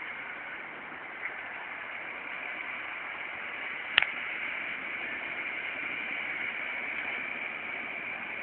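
John Deere 6930 tractor pulling a four-furrow plough, heard as a steady rushing noise without a clear engine note, with a sharp click about four seconds in.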